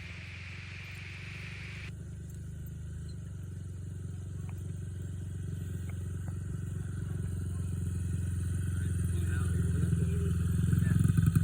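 Small dirt bike engine running steadily, growing louder throughout. A hiss stops suddenly about two seconds in.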